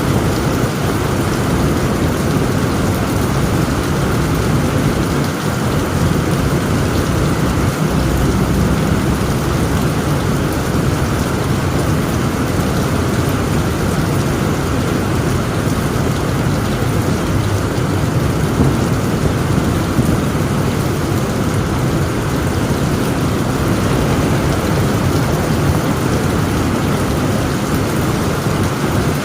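Heavy rain falling steadily on a tent roof, with low rolling thunder rumbling underneath.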